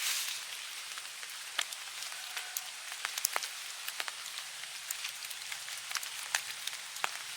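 Scattered water drops falling from the forest canopy onto leaves after rain, a dozen or so sharp taps at uneven intervals over a steady hiss.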